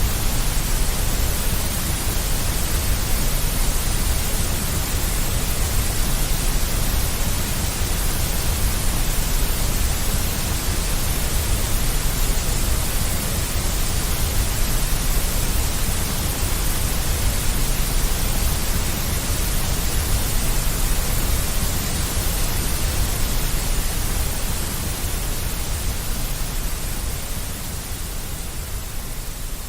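Deep white noise: a steady, even hiss with a strong low rumble underneath, easing slightly in the last few seconds.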